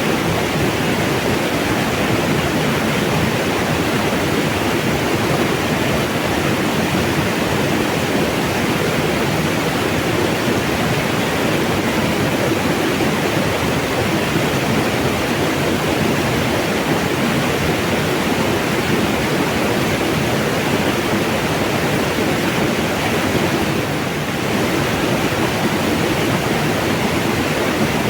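Mountain water rushing, a steady, even roar of flowing water with a brief slight dip near the end.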